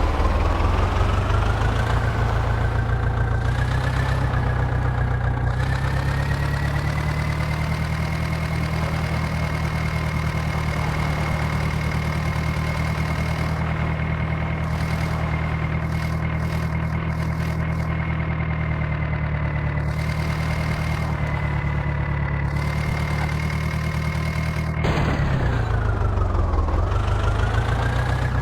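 Diesel engine revving up over several seconds and holding at high revs, then dropping sharply about 25 seconds in and climbing back up near the end.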